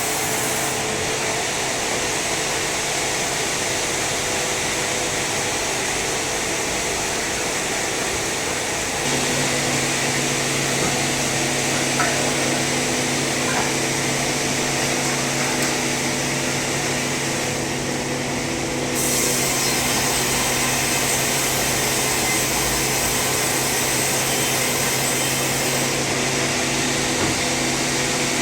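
Sawmill saw running steadily as it cuts through an old, debarked teak log. A steady hum joins about nine seconds in, and the sound dips briefly a little past halfway.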